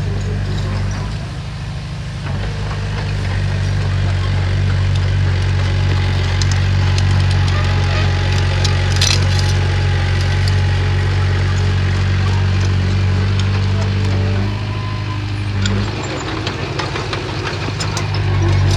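Diesel engine of heavy earthmoving equipment running steadily. Its note eases off briefly about a second in and again near the end. A few sharp metallic clanks ring out over it.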